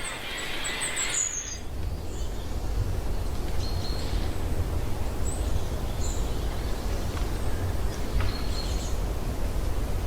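High-pitched bird chirps for about the first second and a half, then a steady low rumble with a few faint chirps over it.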